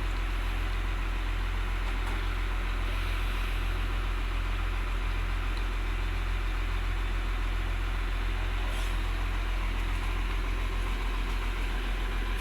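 Isuzu 6BG1 inline six-cylinder diesel engine idling steadily in an excavator, with a deep, even low rumble.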